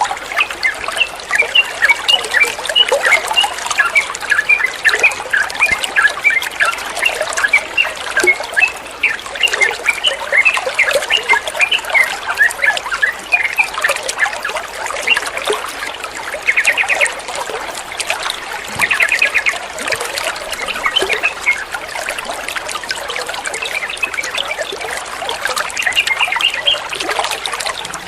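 Water trickling and babbling steadily, mixed with many short chirps of yellow-vented bulbuls (trucukan), and two brief fast trills about two-thirds of the way through.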